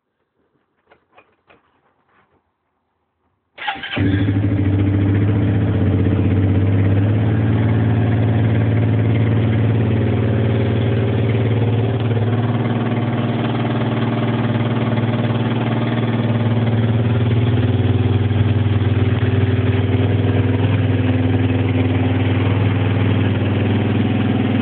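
A few faint clicks, then about three and a half seconds in the 2002 Suzuki Ozark 250 ATV's single-cylinder four-stroke engine fires at once on a cold start after two months unused and settles straight into a steady idle.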